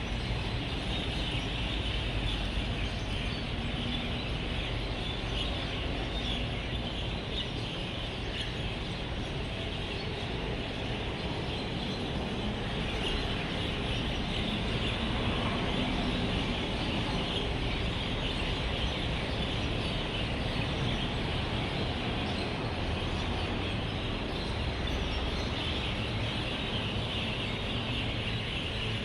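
A large flock of birds chirping and chattering together as they gather to roost, a dense, unbroken chorus over the steady low rumble of road traffic.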